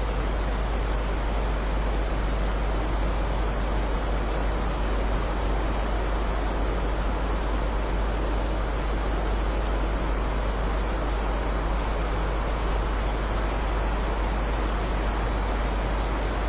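Steady heavy rain: an even, unbroken hiss with no single drops standing out, over a constant low rumble.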